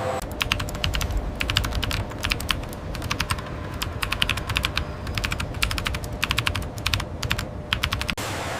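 Rapid, irregular clicking in quick clusters over a steady low hum.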